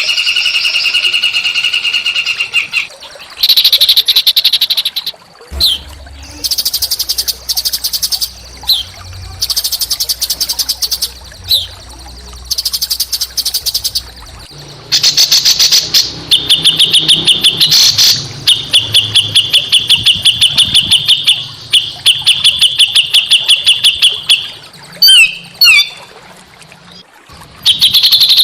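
Small songbird singing a rough, rapid trilling song: fast runs of repeated notes lasting a second or a few seconds each, some held at one steady pitch, with short breaks between them. A low hum runs underneath for several seconds in the first half.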